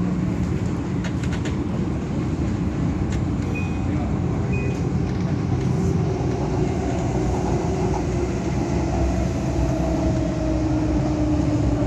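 Adtranz-CAF electric multiple unit (MTR A-Train) running, heard from on board: a steady rumble of wheels and motors, with a motor whine that slowly falls in pitch in the second half as the train slows. Two short high beeps sound about four seconds in.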